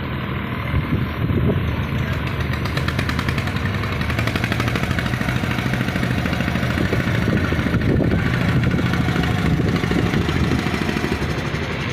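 An engine running steadily at a constant speed with a fast, even chugging beat.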